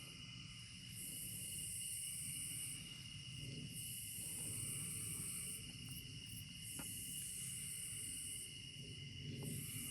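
Insect chorus: a high-pitched buzzing song that swells in phrases about two seconds long, repeating every two and a half seconds or so, over a steady lower trilling. A single faint click comes about seven seconds in.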